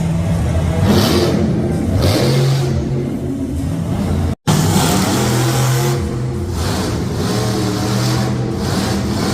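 Monster truck engines revving loudly, with rising and falling pitch; the sound breaks off for an instant about four and a half seconds in.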